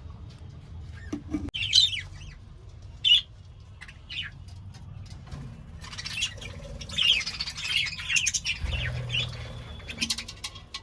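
Budgerigars chirping and chattering, a few short squawks early on, then a busy stretch of overlapping chatter in the middle, over a low steady hum.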